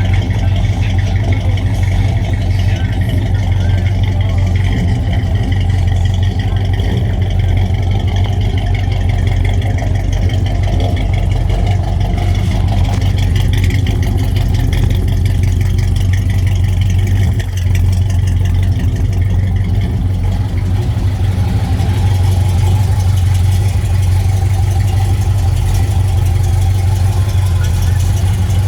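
1974 Chevrolet Impala's engine and exhaust running at a steady idle, with a strong, even low rumble.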